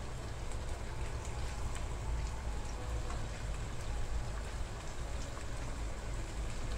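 Sliced beef frying in a nonstick pan, sizzling steadily, with scattered faint ticks and pops as tomato slices are pushed in from a plate with a plastic spatula.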